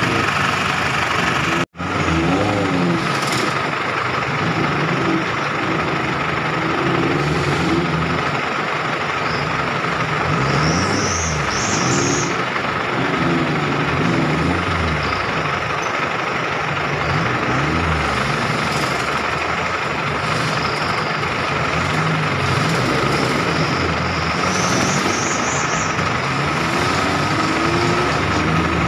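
Off-road 4x4 engines idling and revving in bursts as the vehicles crawl over rocks through a shallow muddy stream.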